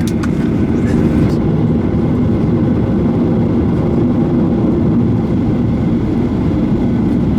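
Steady low rumble inside the cabin of a Boeing 737-900ER airliner on the ground before takeoff, with a few faint clicks in the first second or so.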